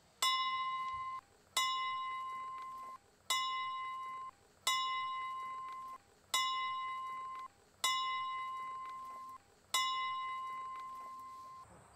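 Small hand-held brass ship's bell struck seven times at an uneven pace of roughly one strike every one and a half seconds. Each strike gives a clear, ringing tone that fades and is then cut off short before the next strike.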